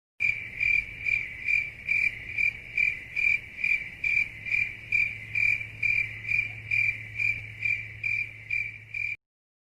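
Cricket chirping sound effect, the familiar meme cue for an awkward silence: an even, high chirp a little over twice a second that cuts off abruptly near the end.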